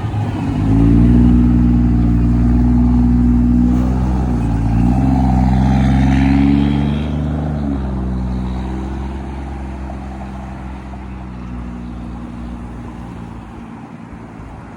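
A motor vehicle's engine running steadily, dipping in pitch briefly a few seconds in, then fading away gradually over the second half.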